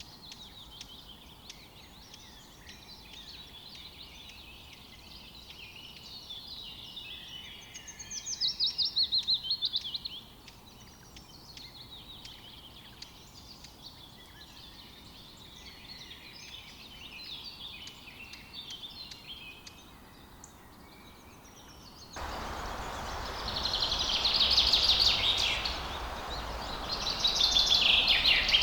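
Songbirds singing and chirping, with a loud, fast trill about eight seconds in. About two-thirds of the way through, a steady rushing background noise begins suddenly and the bird song grows louder.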